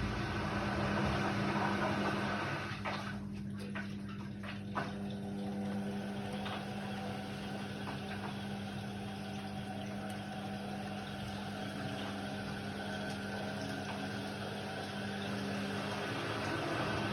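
Indesit WIDL 106 washer-dryer running: a steady motor or pump hum with water noise, and a few faint clicks a few seconds in.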